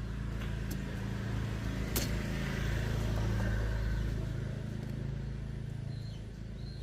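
A motor runs steadily with a low hum that swells a little midway, and there is one sharp click about two seconds in.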